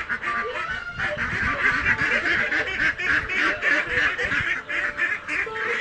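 A flock of domestic ducks quacking, with many calls overlapping in a dense, continuous chorus.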